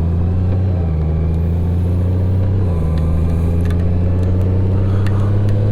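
Motorcycle engine running under way with a steady low drone that shifts slightly in pitch twice.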